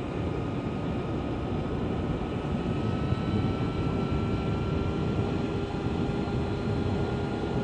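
Energica Experia electric motorcycle on the move: a steady rush of wind over the microphone with the electric drive's thin whine, rising slowly in pitch.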